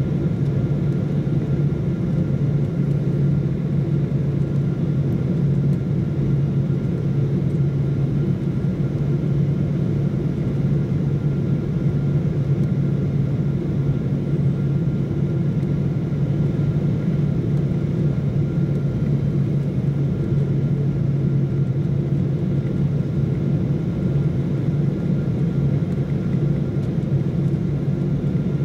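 Steady airliner cabin noise: an even drone of jet engines and airflow with a strong low hum and a faint thin whine above it, unchanging throughout.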